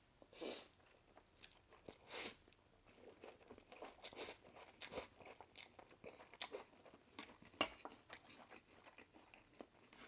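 Faint close-up eating sounds: irregular chewing and mouth smacking while eating stir-fried instant noodles with egg, with a few louder mouthfuls about half a second in, around two seconds in and near the end.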